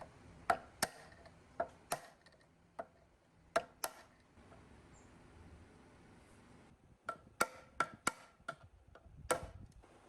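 Irregular sharp metal-on-metal taps and clinks from hand tools and engine parts being handled, some with a brief ring, in a quiet gap of about two seconds midway.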